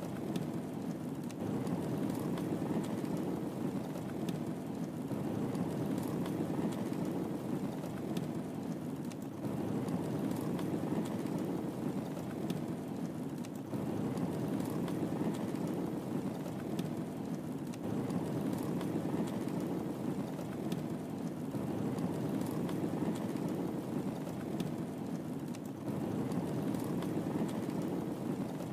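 Wood fire burning in a fireplace: a steady low rushing noise with sparse, faint crackles and pops, gently swelling and easing every few seconds.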